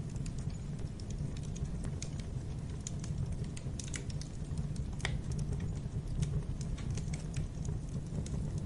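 Wood fire burning in a fireplace, crackling with many irregular sharp pops over a steady low rumble, with one louder pop about five seconds in.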